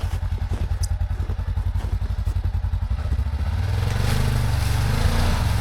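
Side-by-side UTV engine running with an even pulsing beat, then revving up about three seconds in.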